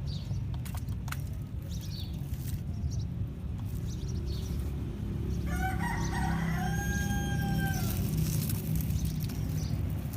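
A rooster crows once, starting about halfway through with a choppy opening and ending in one long held note. Under it runs a steady low rumble, with scattered clicks.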